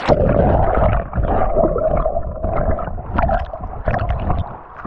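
Muffled water sloshing and gurgling right at the microphone, as when a camera dips at or under the water surface during a swim. It starts suddenly and rises and falls unevenly.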